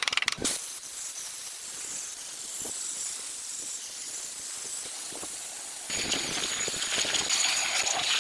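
A few sharp clicks at the start, then a steady high hiss that grows louder and fuller about six seconds in, with a thin steady whistle over it.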